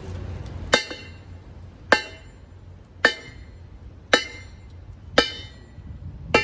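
Sharp metal-on-metal strikes, evenly spaced about once a second, each ringing briefly, over a low steady hum.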